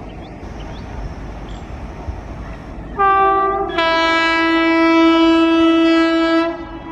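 Locomotive horn of an approaching train, sounded in one long blast of about three and a half seconds starting about three seconds in. A brief higher note steps down to a lower, fuller chord, which then cuts off sharply.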